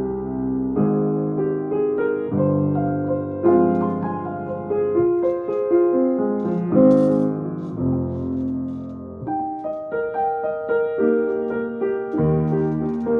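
Yamaha piano playing a slow improvised piece in a modern-classical style: sustained chords under a melody, with new chords struck about once a second.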